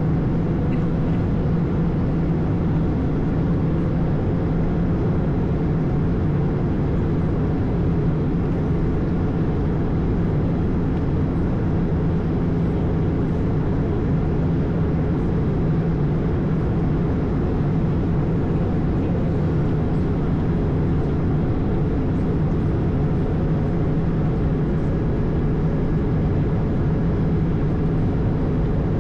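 Steady flight-deck noise of an Airbus A220 in flight: a constant rush of airflow with the low drone of its Pratt & Whitney PW1500G geared turbofans, unchanging throughout.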